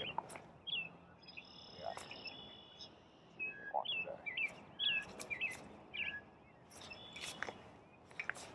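Songbirds chirping and calling, many short quick notes that sweep up and down, with a higher note held for about a second early on, and a few sharp clicks in between.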